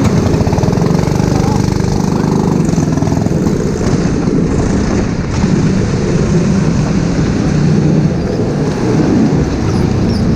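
Kart engine running hard on track, its pitch rising and falling with the throttle, over a steady rush of wind and spray on a wet circuit.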